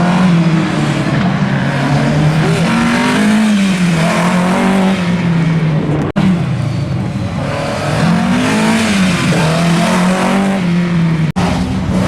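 Rear-wheel-drive rally car engine being driven hard, revving up and dropping back again and again as it is worked through the gears. The sound cuts out for an instant twice, about six seconds in and near the end.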